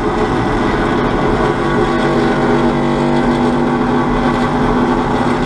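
A vehicle engine idling steadily at a constant pitch.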